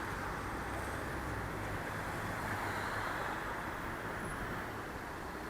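Steady road traffic noise: a continuous rumble and hiss of vehicles, with no sudden sounds.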